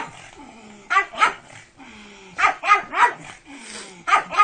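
A dog barking in quick bursts: two barks about a second in, three more a second and a half later, and another starting near the end.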